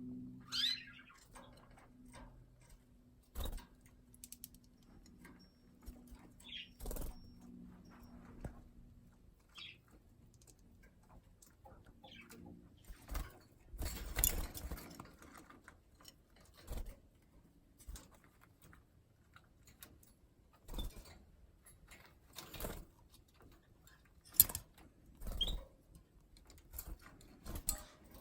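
Red mosaic canaries in a cage giving a few short chirps now and then, among scattered wing flutters and light knocks.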